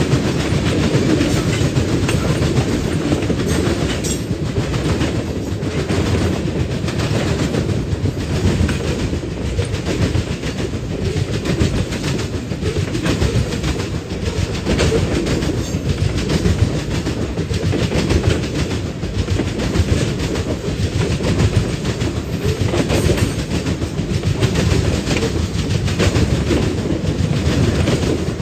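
Freight cars of a mixed manifest train rolling past: a steady rumble of steel wheels on rail, with repeated clicking as the wheels pass over rail joints.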